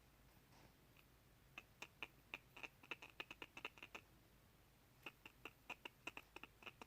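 A run of small, quick clicks from the tear duct of an eye, irregularly spaced, in two bursts: about a dozen clicks from about a second and a half in to about four seconds in, then a pause and another run of about ten near the end.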